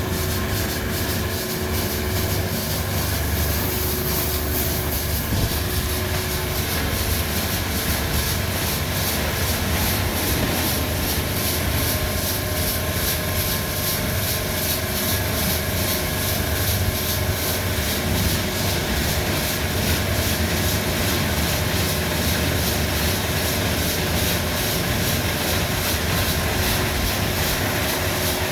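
Christ Genius Vitesse rollover car wash working over a car: a steady mechanical rumble with a few held tones and a fast, even pulsing on top.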